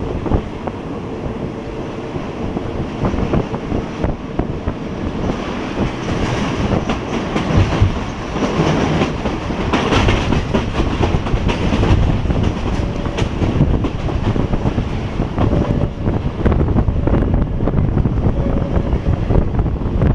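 Passenger train running on the line, a steady rumble with its wheels clacking over the rail joints.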